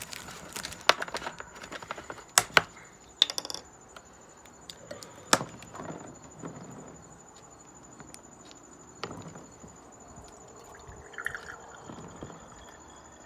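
Scattered clicks, knocks and light clinks of a jug and drinking vessel being handled, busiest in the first few seconds, with a steady high insect trill behind.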